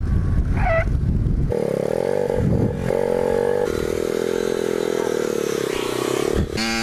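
Pit bike engine running at speed, its pitch holding fairly steady and shifting at abrupt cuts, then rising sharply in a quick rev near the end.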